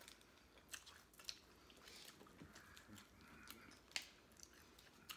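Faint chewing of tacos, with scattered small clicks and mouth noises; the sharpest click comes about four seconds in.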